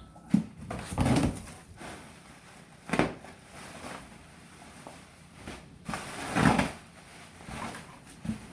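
A cardboard shipping box being opened and unpacked by hand: a handful of separate scrapes and rustles, the longest about six seconds in.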